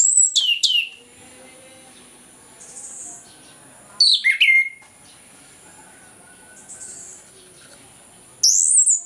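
Orange-headed thrush singing in full open song: loud whistled phrases about every four seconds, each sliding down in pitch, with quieter phrases between them.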